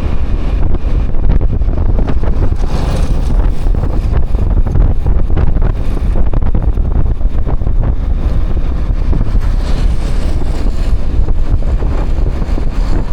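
Wind buffeting the microphone on a moving motorbike, loud and gusty, with the motorbike's running and road noise underneath.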